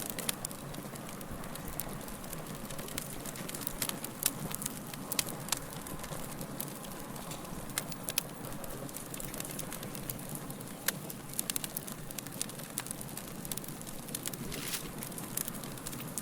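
Fire crackling: a steady soft hiss with irregular sharp pops and snaps scattered throughout.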